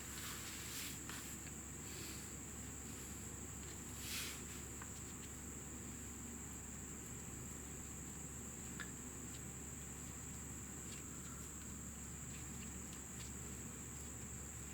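Faint handling of motorcycle brake caliper parts: a couple of short rustles and a few small clicks, as the caliper pins are worked to see whether they slide freely. A steady high-pitched whine runs underneath.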